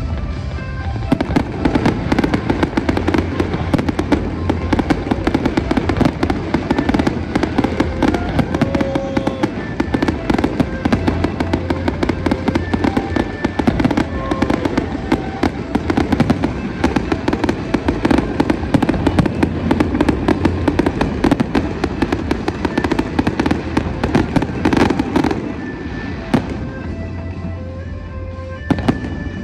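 Aerial fireworks: a dense, rapid string of bangs and crackles from shells bursting overhead, thinning out and getting quieter near the end.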